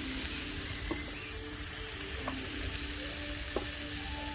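Vegetables sautéing in hot oil in a pan, a steady sizzle with a few faint clicks.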